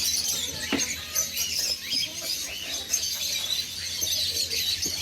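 Many small caged birds chirping and twittering at once, a dense overlapping chatter of short high calls.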